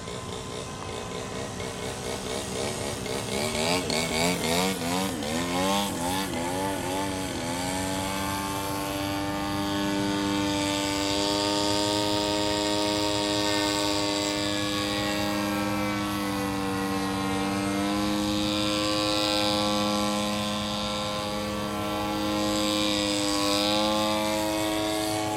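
RC model airplane engine and propeller droning in flight. For a few seconds early on the pitch wavers rapidly up and down. It then settles into a steady drone whose pitch drifts slowly.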